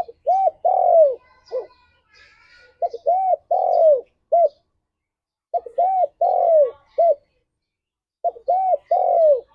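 Spotted dove (tekukur) cooing: four repeated phrases, each a short note, two arched coos, a longer falling coo and a short closing note, about one phrase every three seconds. Faint higher chirps come between the phrases.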